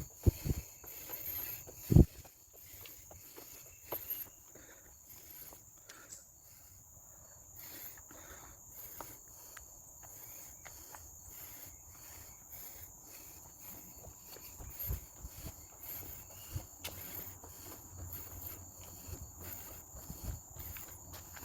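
Insects droning: a steady, high, rapidly pulsing buzz. Footsteps on the trail thud underneath, heaviest in the first few seconds.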